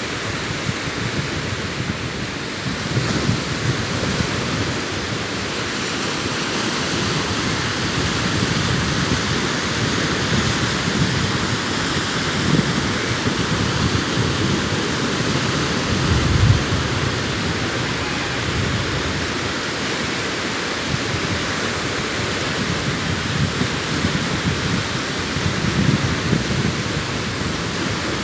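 Sea waves breaking on a beach: a continuous rushing wash of surf that swells and eases, with a brief low surge about sixteen seconds in.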